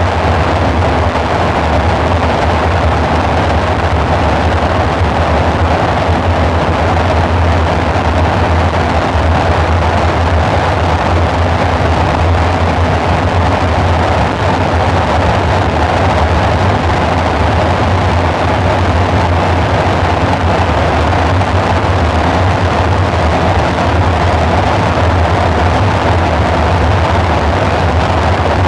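Synthesizer dark-ambient drone: a loud, steady low hum under a noisy, rushing wash, with no beat or change.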